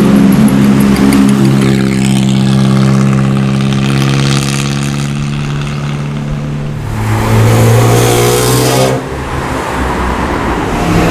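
Car engines passing under acceleration, one after another. The first engine note slowly falls in pitch as it pulls away. A second rises in pitch from about seven seconds in and cuts off abruptly about two seconds later.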